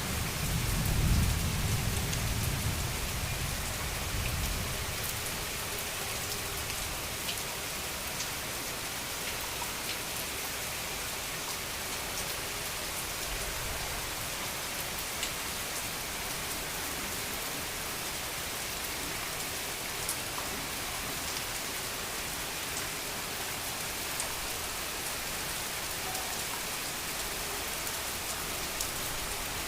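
Heavy rain pouring steadily, with scattered sharp ticks of drops striking. A deep rumble of thunder peaks about a second in and fades away over the first five seconds.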